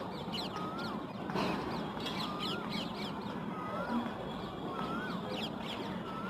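Birds calling: one clear whistled note that rises and then falls, repeated about every second and a quarter, with many short high chirps over it.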